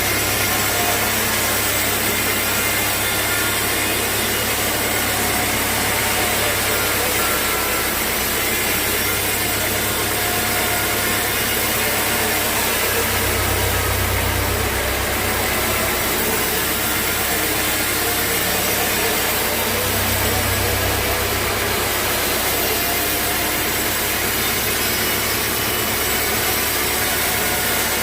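Sawmill machinery running: a steady motor hum under the continuous noise of a saw working wood. The low hum swells twice, about halfway through and again a few seconds later.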